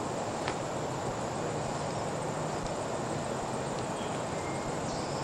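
Steady background hiss at an even level, with one faint click about half a second in.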